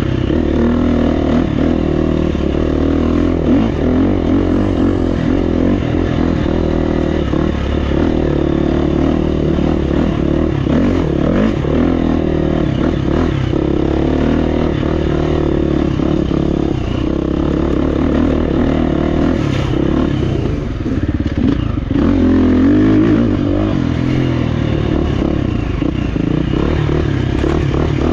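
Gasgas EX350F single-cylinder four-stroke dirt bike engine running under load on a trail, the revs rising and falling with the throttle, with clattering knocks from the bike over rough ground. The engine eases off briefly about two-thirds of the way in, then revs up again.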